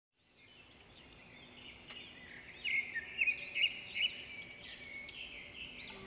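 Several birds chirping and calling in quick, repeated bursts over a faint steady rush of falling water; the sound fades in at the start, and the calls are loudest about three seconds in.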